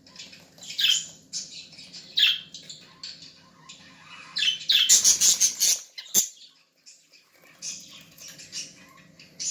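Young budgerigars squawking and chirping in short, harsh calls, with a louder rustling flurry about five seconds in and a sharp click just after.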